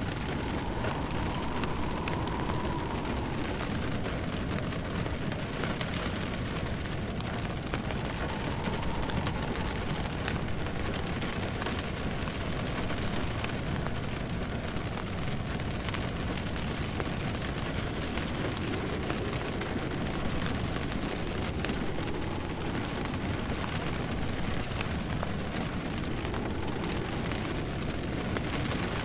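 Steady rain pattering, mixed with a crackling log fire in a fireplace. A faint whistling wind swells and fades every several seconds.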